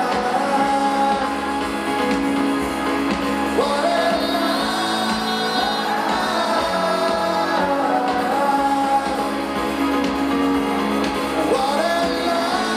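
Live rock band playing, with sung vocals over guitars and a steady band backing.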